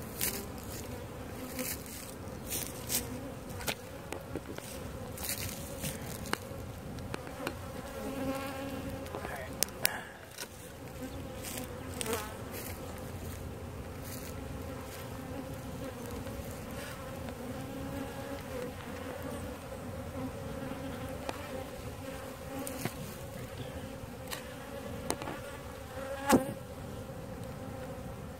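A large honeybee colony buzzing steadily in a dense, continuous hum as the hive is removed. Scattered short clicks and knocks sound over it, with a sharper knock a couple of seconds before the end.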